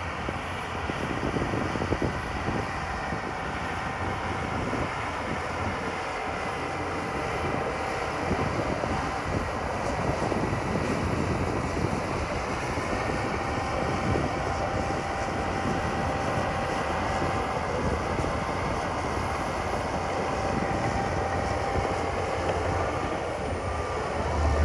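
Heavy diesel earthmoving machinery running steadily, with a faint high whine and irregular clanking.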